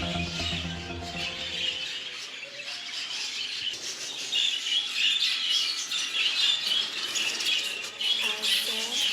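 Dense chatter of many small cage birds, chirps and squawks crowding over one another. Background music fades out in the first second or two.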